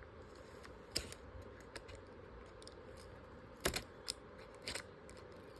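A handful of light, irregular clicks and taps over quiet room tone: a screwdriver working at a screw that will not come out, and small parts being handled.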